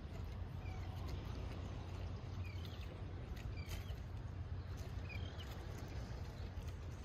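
Short, high bird chirps scattered every second or so over a steady low rumble, with faint clicks.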